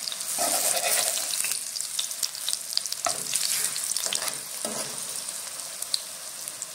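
Pieces of set gram-flour (besan) batter shallow-frying in hot oil, a steady crackling sizzle. A metal spoon scrapes the pan a few times as the pieces are turned over.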